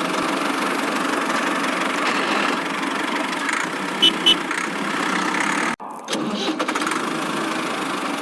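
A small motor running with a steady whir, broken by a sudden cut just before six seconds in. Two short high beeps come about four seconds in.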